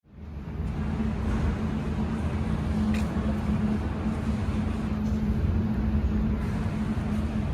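Ford Ranger Raptor's 3.0-litre twin-turbo V6 running at a steady idle, a low even hum that fades in over the first second.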